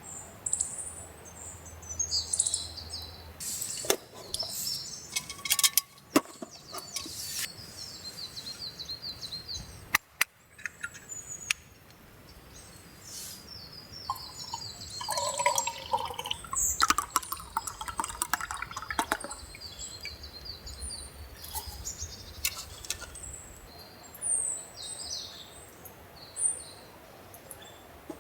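Small birds chirping again and again in short high notes, with a few sharp knocks and a stretch of close clatter around the middle.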